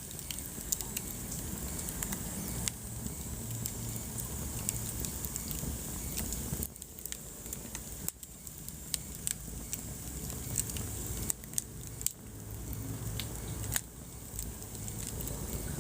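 Wood fire crackling in a fireplace: frequent sharp snaps and pops over a steady low rumble of burning.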